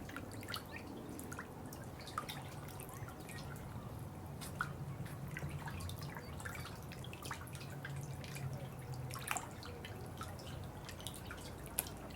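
Water dripping and plinking irregularly, with a few louder drops standing out, over a steady low rumble.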